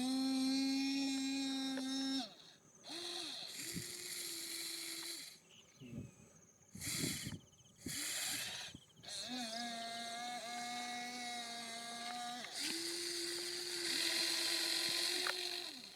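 Small electric motors of radio-controlled construction models running in steady whining runs that start and stop, the pitch stepping between a lower and a higher tone from one run to the next, with short broken pauses in the middle.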